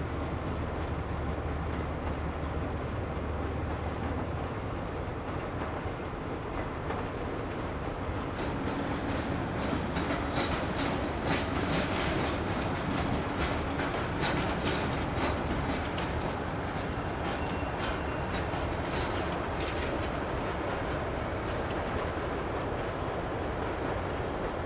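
Train wheels clattering over rail joints and points. A low steady hum is heard at first, and the clatter grows busier and louder from about eight seconds in, easing off after about twenty seconds.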